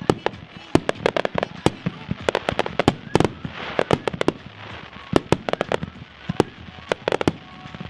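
Aerial firework barrage firing: a rapid, irregular string of sharp cracks and bangs, several a second, with a brief crackling haze partway through.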